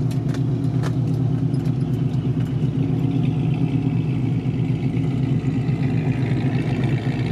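A car engine idling steadily, with a few light clicks in the first second.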